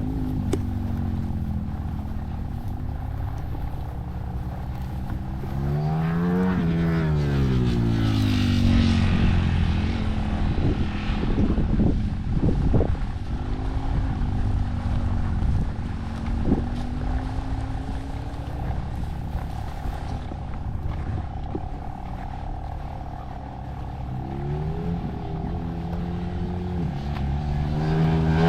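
Pitom pit bike engine being ridden hard, its pitch rising and falling with the throttle and gear changes. It climbs sharply about six seconds in and again near the end.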